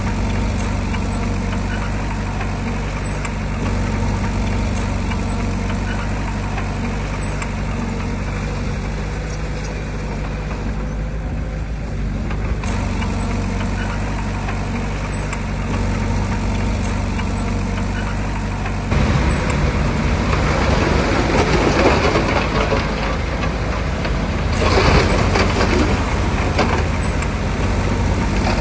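Heavy diesel earthmoving machinery running steadily at a low engine note. About two-thirds of the way through it turns louder and rougher, with a rushing, gritty noise on top of the engine.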